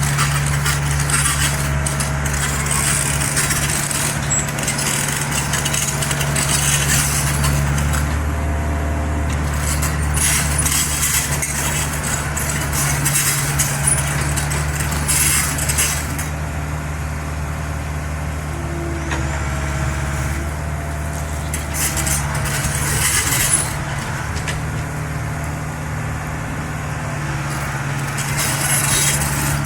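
Mini excavator engine running steadily under work, with intermittent bursts of higher hiss and clatter on top. The engine note shifts slightly about a quarter of the way in and gets a little quieter about halfway through.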